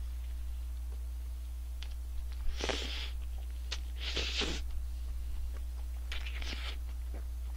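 Biting and chewing a fried-chicken burger close to the microphone: three short crunching bursts about one and a half to two seconds apart, over a steady low hum.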